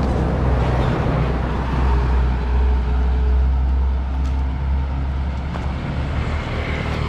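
Truck passing close by on the road: a low engine rumble and road noise that swell to a peak a few seconds in, then ease off.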